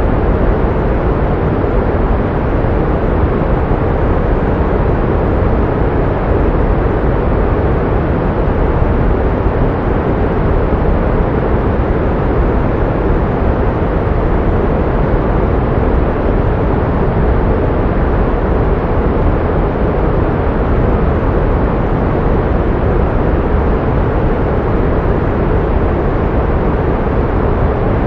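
Pink noise: a steady, unchanging rushing hiss, fuller in the low and middle range and dull at the top.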